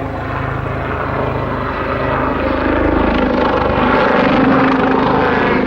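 Westland Lynx military helicopter running, its rotors and twin turboshaft engines making a steady, dense noise that grows gradually louder.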